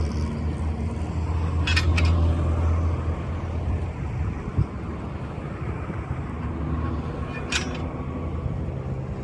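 A heavy vehicle's engine hums, loudest in the first few seconds, fading midway and building again near the end. Over it come a few short, sharp clinks, two close together about two seconds in and one more near the end, and a single thump midway.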